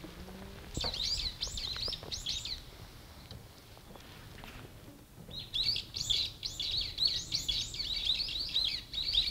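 A small songbird chirping in quick strings of high, sharply falling notes: a short run about a second in, then a longer run from about five seconds in.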